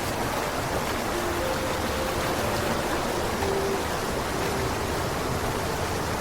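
Mountain creek rushing over rocks and cascades, running high after storms: a steady, even rush of falling water.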